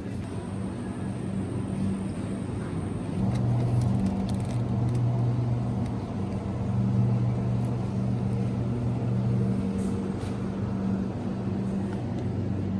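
A low, steady mechanical hum that grows louder about three seconds in and eases off somewhat near the end.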